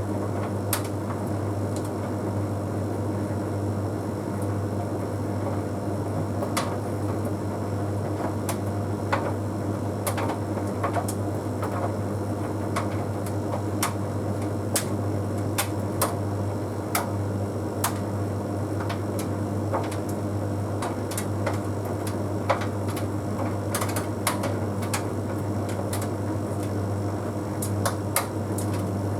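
Bosch Series 6 heat pump tumble dryer running mid-cycle: a steady low hum from the machine, with irregular light clicks and taps as the load tumbles in the drum.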